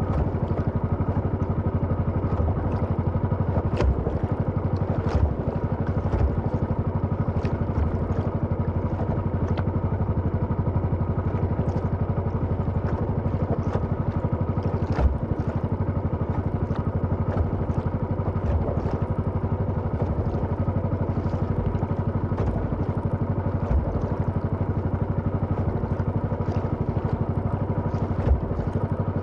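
Small engine running steadily at an even speed, with occasional brief knocks and clatters over it.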